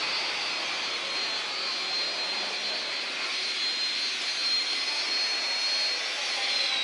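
A Shinkansen train running through the station at speed: a loud rushing noise with a high steady whine, which falls in pitch and fades near the end.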